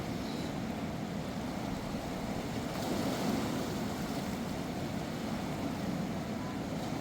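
Steady rush of fast-flowing water from a river swollen by heavy rain.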